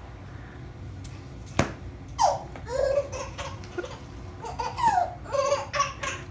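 A baby laughing in short repeated bursts, most of them in the second half, with a single sharp knock about one and a half seconds in.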